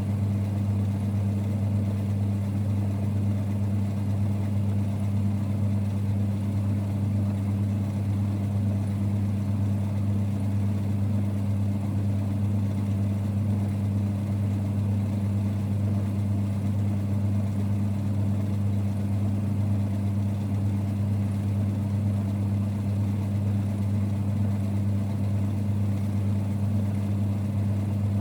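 1946 Boxford lathe running with a steady low rumble and hum that doesn't change.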